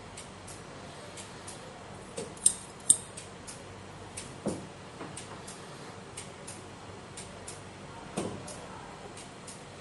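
Two sharp metallic snaps close together about two and a half seconds in, the blades of the restored cooking scissors closing, then a couple of softer knocks. A steady, fairly quick ticking runs under it all.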